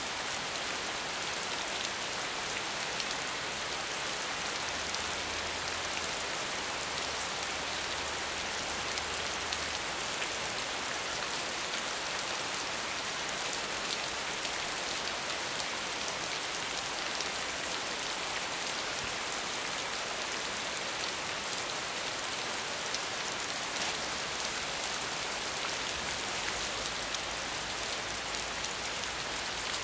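Steady medium rainfall: an even hiss of rain, dotted with the small ticks of individual drops landing.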